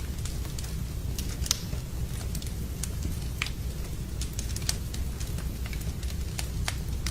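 Wood campfire burning, with sharp irregular crackles and pops over a steady low rumble; the loudest pop comes about a second and a half in.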